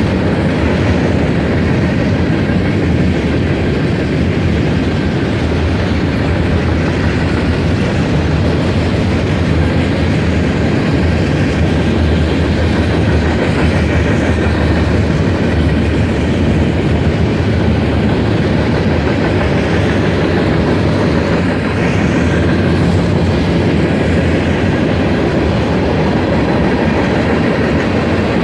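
BNSF mixed freight train's cars, mostly covered hoppers, rolling past steadily on the rails, a loud, unbroken noise of steel wheels on track.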